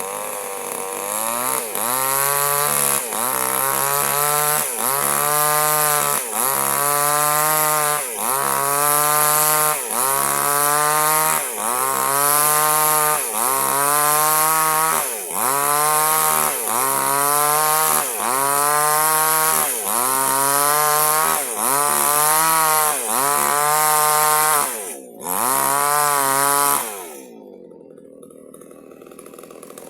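Small two-stroke chainsaw cutting durian wood, the engine pitch rising and dipping in a regular cycle about every second and a half as it works through the cut. Near the end the saw drops to a quieter low running for a couple of seconds.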